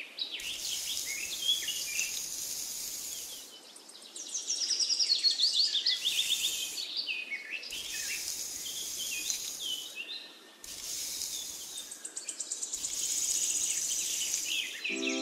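Birds chirping and insects trilling in a countryside ambience, with the high insect hiss cutting in and out several times.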